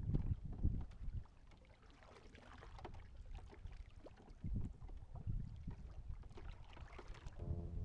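Wind buffeting the microphone in uneven low gusts, with light rustling and water noise around a kayak. Music with long held notes comes in just before the end.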